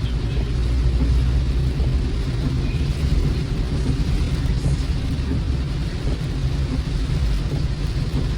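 Steady low rumble of a car driving, heard from inside the cabin, with a fainter even hiss of rain and tyres on a wet road.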